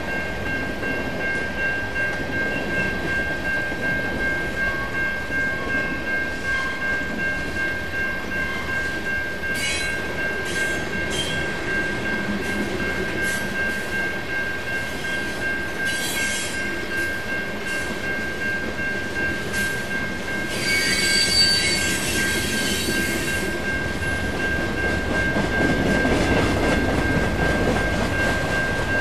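Train rolling by, its wheels rumbling on the rails under a steady high-pitched squeal, with a few short sharper screeches about a third of the way in and again past the middle.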